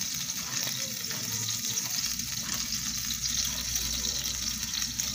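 Guajillo chile salsa frying in a hot pan as it is strained in, a steady sizzling hiss.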